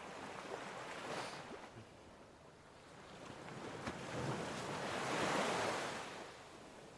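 A water sound effect being played back: a rushing, surf-like wash of water that swells briefly about a second in, then builds to a bigger swell around five seconds and fades away.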